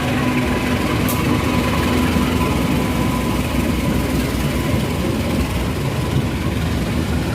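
Train running past at close range: a steady, loud rumble of engine and rolling wheels.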